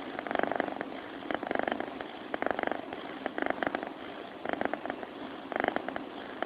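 A sleeping cat purring close to the microphone: a fast, buzzing purr that comes in short bursts about once a second, rising and falling with its breathing.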